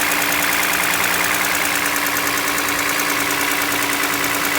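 Toyota 2GR-FE 3.5-litre V6 idling with a steady, fast knock. A new timing chain and new VVT-i couplings have not cured the knock, and the mechanics suspect piston knock from one of the rear-bank pistons, worst when cold.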